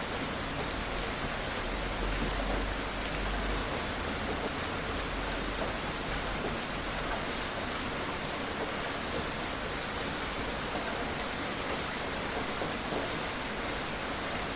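Steady gentle rain falling, an even hiss with faint scattered drops pattering on surfaces.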